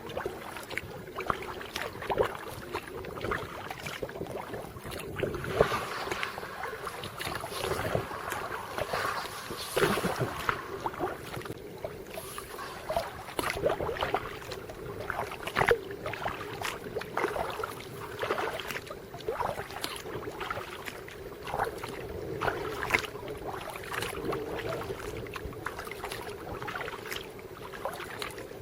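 Kayak paddling: the paddle blades dipping and splashing in lake water at an irregular pace, with drips and water along the hull of a Dagger Stratos kayak.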